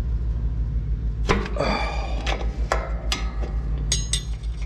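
Metal hand tools and bolts clinking and knocking against steel, about seven sharp strikes, some with a brief ring, over a steady low hum.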